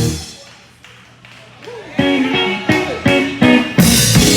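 Live band music with guitar: the playing dies away to a low level, then from about two seconds in a handful of sharp chord stabs come in and lead back into the full band near the end.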